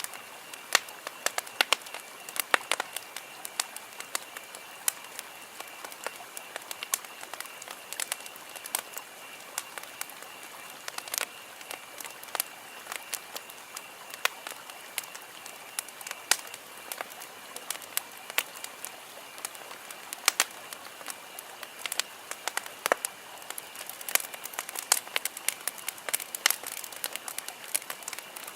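Wood campfire burning, crackling with many irregular sharp pops over a soft hiss.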